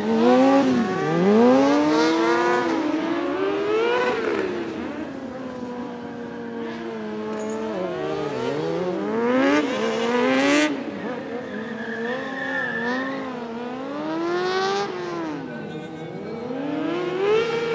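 Motorcycle engines revving up and down again and again, several at once, their notes rising and falling and overlapping throughout.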